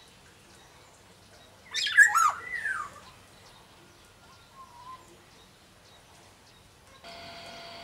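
Black-naped oriole (kepodang) giving one loud call about two seconds in: a harsh downward sweep followed by curved whistled notes. A faint short note comes about three seconds later, and a steady hum starts near the end.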